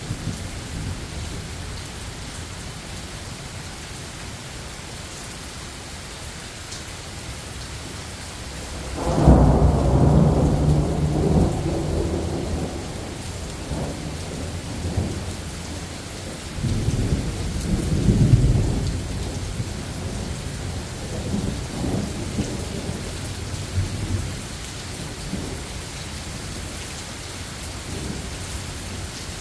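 Steady rain falling in a thunderstorm, with a loud roll of thunder breaking in about nine seconds in and rumbling on for several seconds. A second, weaker rumble of thunder follows some seconds later.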